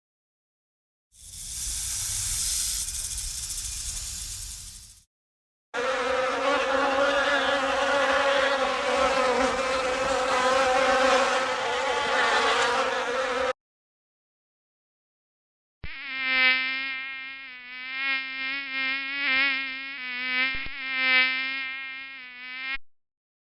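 Buzzing of flying insects, played as separate sound-effect clips with abrupt starts and stops: a hissing noise for about four seconds, then a steady buzz for about eight seconds, then a wavering, pitched buzz for about seven seconds.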